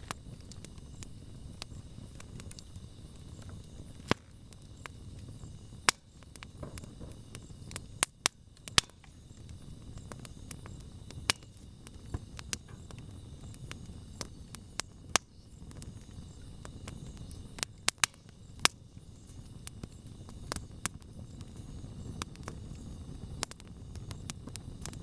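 Wood campfire crackling: irregular sharp pops and snaps, a few of them loud, over a steady low noise of the burning fire.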